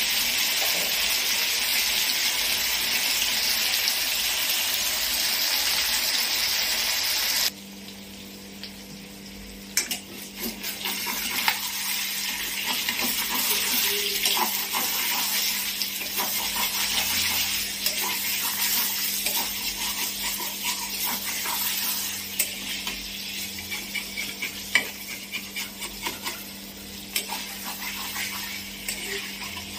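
Chicken kosa sizzling loudly in a kadai. About seven seconds in the level drops suddenly. After that the frying goes on more quietly, with a spatula stirring and scraping against the pan in many small clicks, over a steady low hum.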